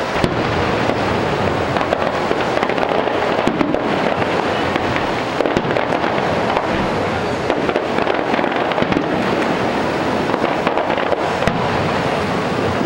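Aerial fireworks display going off in a dense, continuous barrage of bangs and crackles, with no break.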